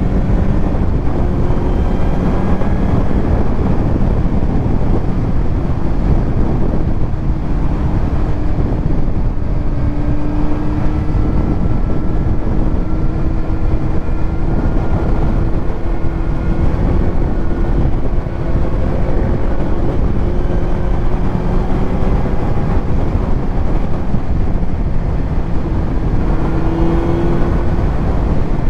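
Kawasaki Z900's inline-four engine through a titanium Arrow exhaust at a steady cruise. Its note holds fairly even, with slight rises and dips in pitch, under a heavy low rush of wind and road noise.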